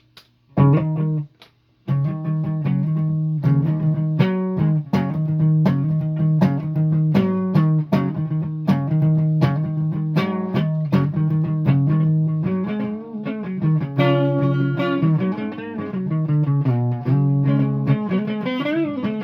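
Guitar played by picking out single notes one after another. There is a short stop just after the start, then a steady run of notes, which ring together more fully in the last few seconds.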